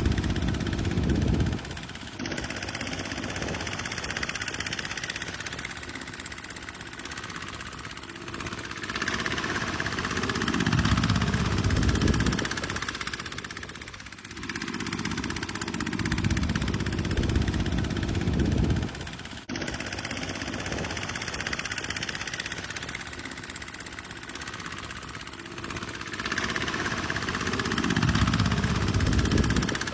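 Tractor engine running under work, swelling louder with a deep rumble and easing off again every several seconds. The sound breaks off abruptly twice and picks up again.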